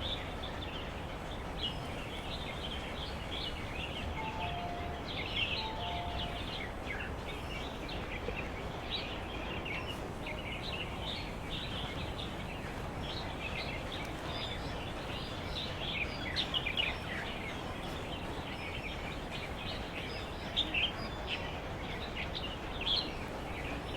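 Many small birds chirping over a steady background hiss, with the chirps thickest in two spells. A short falling two-note whistle sounds twice, about four and five and a half seconds in.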